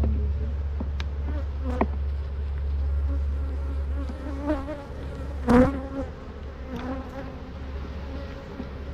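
Honeybees buzzing around an open hive box, with single bees passing close to the microphone in short buzzes. A few sharp clicks come early, the loudest moment is a close buzz with a bump about five and a half seconds in, and a steady low rumble runs underneath, easing off after that.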